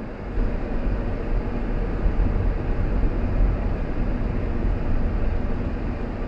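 Car driving: steady road and engine noise with a deep rumble that swells about half a second in and eases slightly near the end.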